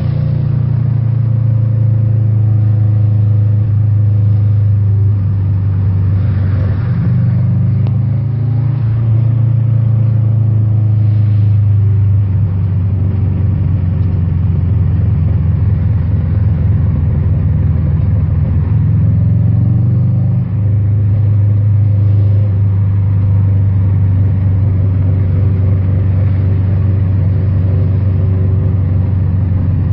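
Turbocharged Subaru EJ22 flat-four running through a 3-inch catless exhaust, a steady low drone as the car drives at a fairly even pace, with a few brief changes in pitch.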